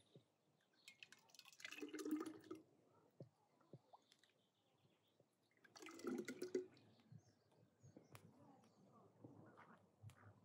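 Two short bursts of liquid splashing or being poured, about four seconds apart, against near silence.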